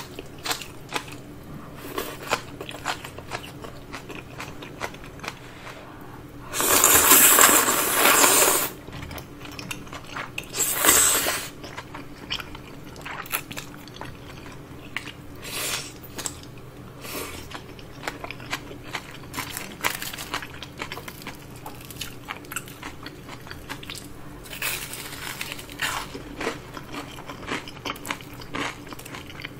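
Close-miked eating: chewing, biting and crunching of udon noodles, green onion kimchi and crispy fried shrimp, many small wet clicks, with two loud noisy bursts about seven and eleven seconds in.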